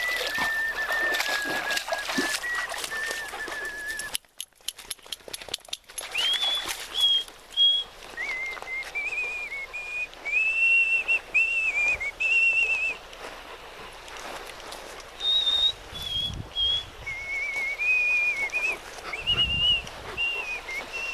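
A person whistling a slow, meandering tune in held and stepped notes, with a gap of a couple of seconds holding a few clicks about four seconds in.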